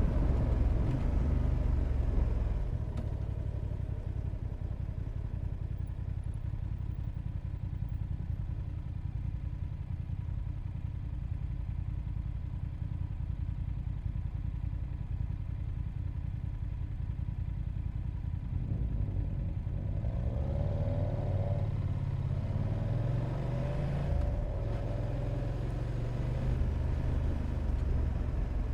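Motorcycle engine running under way, with road noise; it drops to a lower, quieter run a couple of seconds in, then about two-thirds of the way through its pitch rises in steps as the bike accelerates through the gears.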